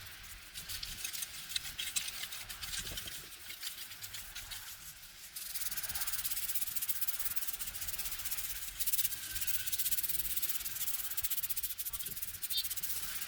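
Rapid rubbing and scraping on a hard surface, a dense scratchy texture that gets louder about five seconds in and keeps going.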